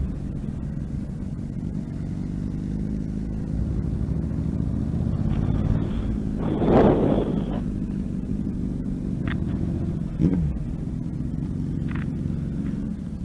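Motorcycle engine running at low speed, a steady low rumble that changes note about three and a half seconds in, with a brief rushing swell near the middle that is the loudest moment.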